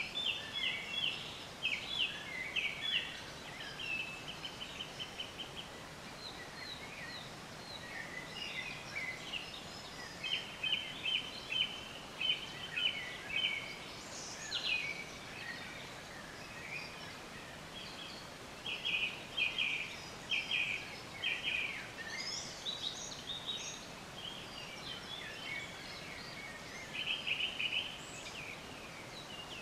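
Small birds chirping in short rapid trills, a phrase of a second or two every few seconds, over a steady faint hiss.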